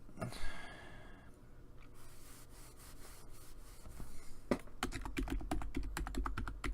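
Typing on a computer keyboard: a quick run of key clicks starting about four and a half seconds in, after a soft rustle near the start.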